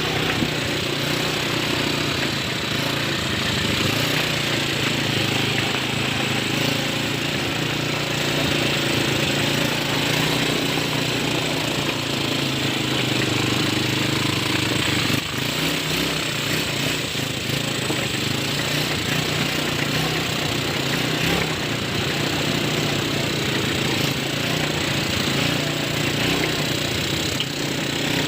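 ATV engine running steadily, with rough noise across the whole sound.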